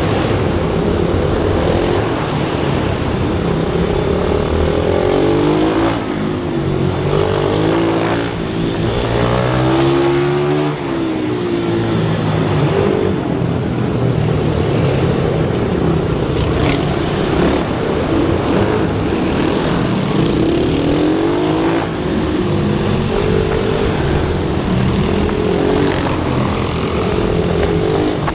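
Pit bike engines running hard, their pitch rising and falling repeatedly as they rev up and change gear, with more than one bike heard at once at times.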